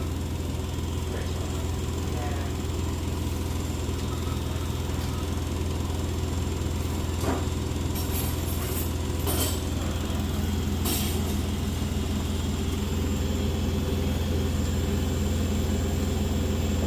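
Beko WS832425S washing machine spinning fast: a steady low mechanical drone, with a few brief rattles about halfway through.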